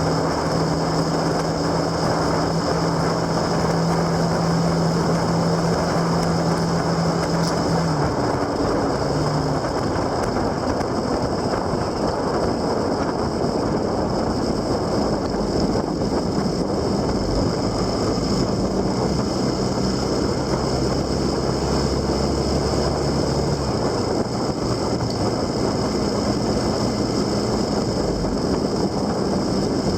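Wind rushing over the microphone of a moving vehicle, with a steady engine hum underneath. The hum drops out about 8 seconds in and comes back at a different pitch a little after the midpoint.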